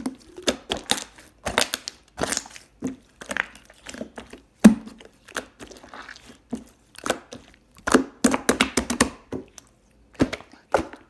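Close-miked eating sounds: irregular crunchy, crackly bites and wet chewing clicks coming in quick clusters, loudest around the middle and again about eight to nine seconds in.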